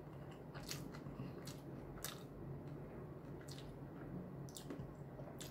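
A person chewing a mouthful of food with the mouth closed: soft, wet chewing with about six sharp mouth clicks spread through.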